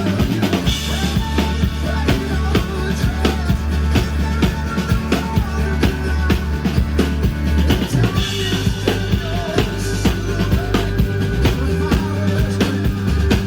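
Amplified band music with a steady drum-kit beat of kick and snare over a sustained bass line and a melody.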